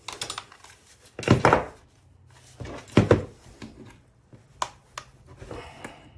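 Clicks and clacks of a car door lock mechanism being handled and worked on, with two louder clattering clusters about a second and a half and three seconds in, and lighter clicks later.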